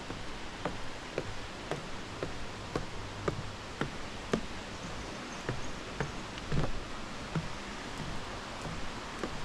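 Footsteps of a walker on a bush track, about two steps a second, each a short knock over a steady background hiss.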